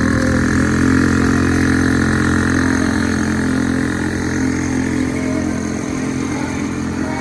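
Small motorcycle engine running steadily at a nearly constant pitch, with no revving up or down.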